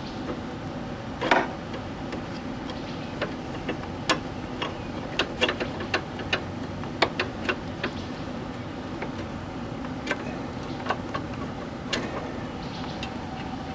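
Pliers and other hand tools clicking and clinking against metal parts in short, irregular ticks, with one louder knock about a second in, over a steady low hum.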